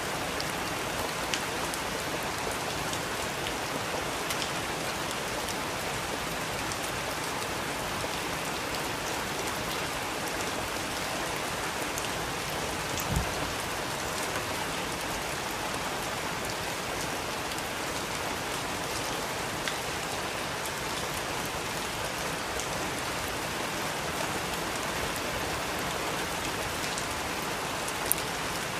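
Steady rain falling, an even hiss with scattered individual drops ticking on a surface; a single low thud about halfway through.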